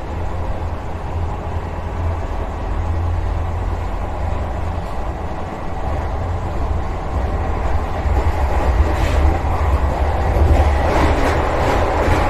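Vande Bharat Express electric train running at speed, heard from inside the driver's cab: a steady low rumble. From about eight seconds in, the clatter of wheels over the rails grows louder and more frequent.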